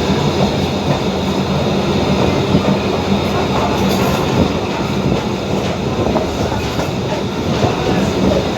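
Passenger train running along the track, heard from aboard: a steady rumble with a constant hum, and wheels clicking over the rail joints.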